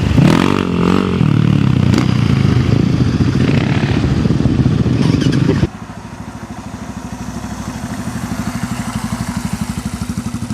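Enduro motorcycle engines running loudly and revving, with rising revs near the start. A little over halfway through the sound drops abruptly to a quieter engine with an even, pulsing beat.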